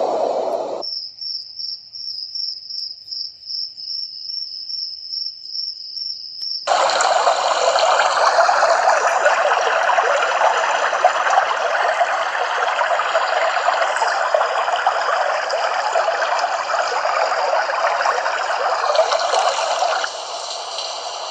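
Dreamegg Pocket Sleep 1 mini white noise machine playing its built-in sounds. First a cricket-chirp sound, a high pulsing tone about three to four times a second. About six seconds in it switches to a loud, even rushing water-like noise, which drops to a quieter, softer noise near the end.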